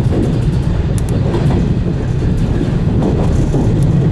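115 series electric train running along the track, heard from the front car: a steady low rumble with a few clicks from the wheels passing over rail joints.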